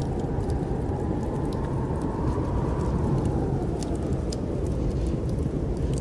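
Snowstorm wind blowing steadily, with a whistling gust that rises in pitch about two seconds in and falls away by about four seconds. Scattered small crackles of a wood fire in a fireplace sound over it.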